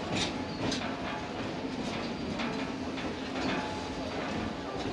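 Passenger train rolling along the track, heard from an open-air car: a steady rumble of wheels on rail, with sharp clacks every half second to a second as the wheels cross rail joints.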